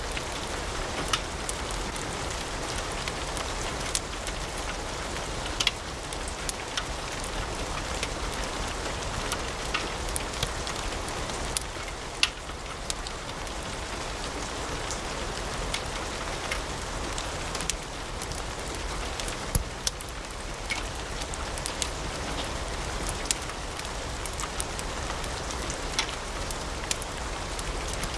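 Wood fire crackling in a fireplace: a steady hiss with irregular sharp pops and snaps of burning logs.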